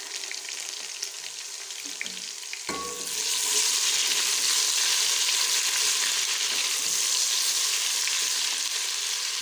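Ginger-garlic paste and sliced onions frying in hot oil in a pot, sizzling as a spoon stirs them. About three seconds in, after a brief knock, the sizzle turns much louder and stays so.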